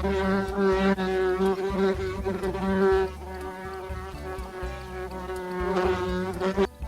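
Bees buzzing: a steady, loud hum with a slight waver in pitch that cuts off suddenly near the end.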